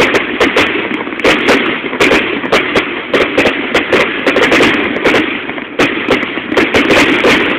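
Fireworks going off in quick, uneven succession, several sharp bangs a second over a continuous dense din of crackling and booming.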